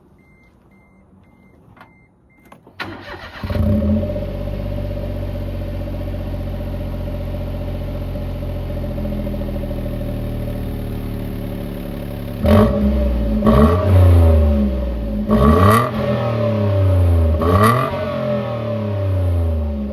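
A faint intermittent beep, then the Daihatsu L700 Mira's swapped-in twin-cam engine cranks and starts about three seconds in, flares up and settles to a steady idle. From about twelve seconds in it is revved in four short throttle blips, heard through a one-off exhaust made from the stock silencer partly gutted.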